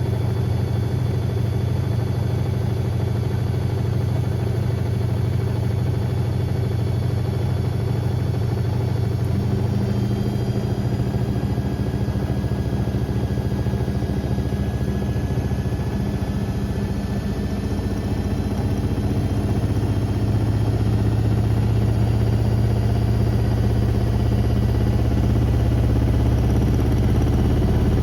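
Beko WM74135 washing machine drum spinning, a steady motor hum whose low tones shift a couple of times as the drum changes speed, with a faint rising whine in the middle. It grows louder over the last third.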